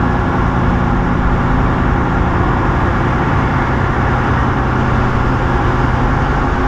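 Semi-truck's diesel engine running steadily, with a constant hum and road noise.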